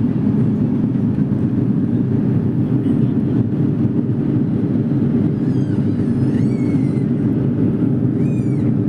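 Airbus A330-300 cabin noise, a steady low roar of engines and airflow heard from inside the cabin after takeoff. Two faint, short, high-pitched wavering squeals sound over it in the second half.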